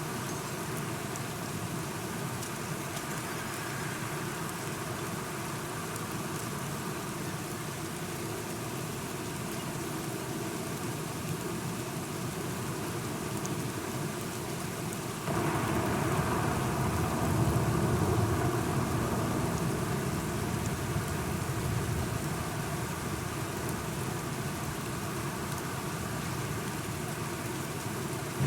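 Steady rain falling throughout, with a long rumble of thunder that comes in suddenly about halfway, swells for a couple of seconds and then slowly dies away under the rain.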